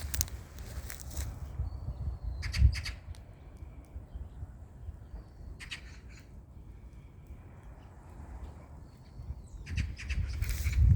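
Split firewood being handled and tossed, clattering knocks in a few bursts with one heavier thud about two and a half seconds in, over low wind rumble on the microphone.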